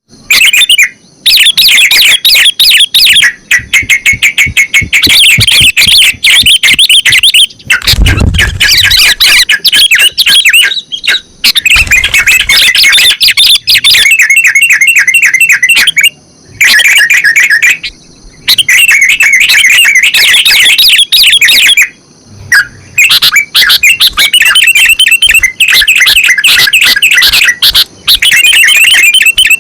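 Sooty-headed and yellow-vented bulbuls singing very loudly in fast, bubbling chattering phrases of one to three seconds, each followed by a short pause. A low thump comes about eight seconds in.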